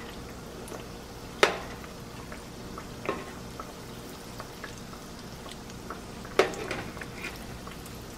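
Biscuit dough frying in shallow oil: a steady sizzle with fine crackles. A slotted spatula knocks against the pan three times, about a second and a half in, about three seconds in and, loudest, about six and a half seconds in.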